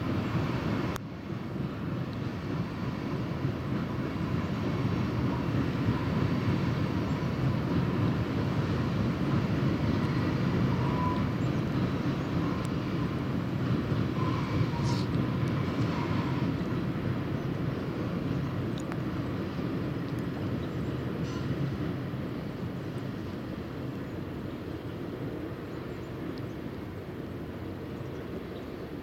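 Freight cars of a Canadian Pacific train rolling across a steel truss bridge, heard as a steady low rumble with a few faint brief squeals around the middle. The rumble fades slowly over the last several seconds as the end of the train crosses.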